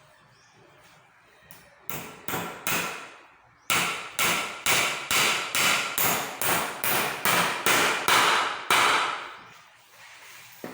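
Hammer blows while repairing a school chair: three strikes, then a steady run of about a dozen more at roughly three a second, each with a short ring.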